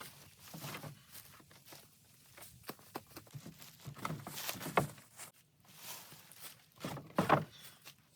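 Footsteps with scattered knocks and rustles, and a few louder brief thuds about halfway through and near the end.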